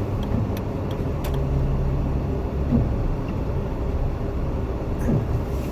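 Jeep Wrangler driving on a snowy road, heard from inside the cabin: a steady low rumble of engine and tyres.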